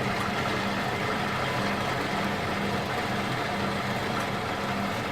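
Semi-automatic box strapping machine running, a steady motor noise with a low hum that comes and goes at a regular pace. The strap is not feeding forward because the feed roller is cut and no longer grips it.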